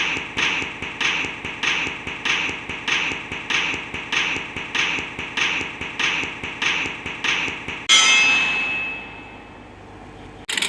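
An even run of clanging hits, about three a second, then one loud ringing clang about eight seconds in that slowly dies away.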